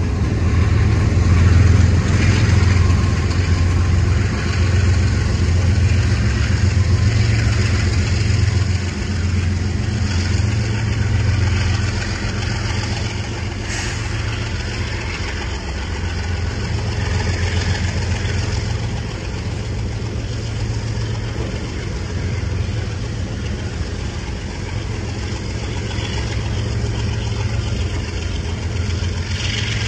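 Freight train of multi-level autorack cars rolling slowly past: a steady low rumble of steel wheels on rail with a hiss of running noise, louder for the first dozen seconds and then easing slightly, with a brief sharp clank or squeal about halfway through and again near the end.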